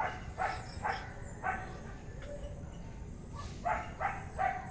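A dog barking in two runs of about three short barks each, with a pause of about two seconds between them.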